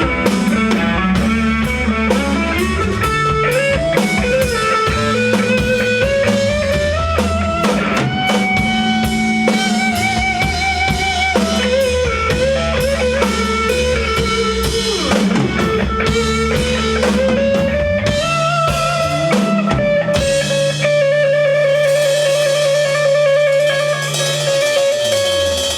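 Rock band playing live, an instrumental passage: a lead guitar melody with vibrato over bass and drums. About 20 seconds in, the low end drops away, leaving a long held, wavering guitar note over cymbals, and a low note slides down near the end.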